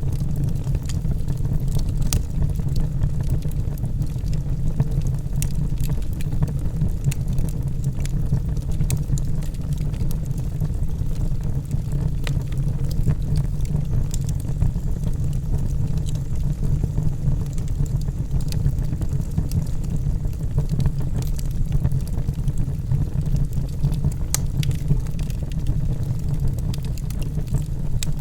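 Wood fire burning in a fireplace: a steady low rumble of the burning logs with scattered irregular crackles and pops.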